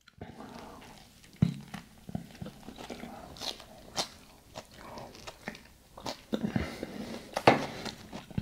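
Close-up eating sounds: a bite into a soft-shell shredded brisket taco, then chewing with irregular mouth smacks and small crunches, a few of them louder.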